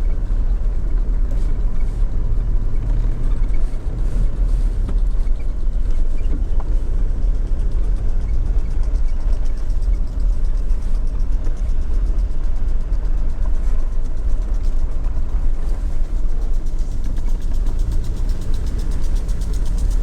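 Car running as it moves along: a steady low rumble of engine and road noise.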